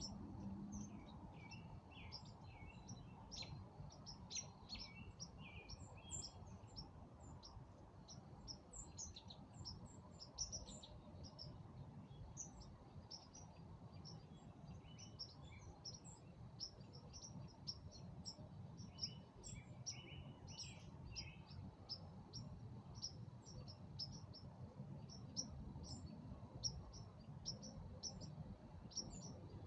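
Several songbirds chirping and twittering: many short, high chirps throughout, with bursts of lower twittering song near the start and again about two-thirds of the way through, over a faint low background rumble.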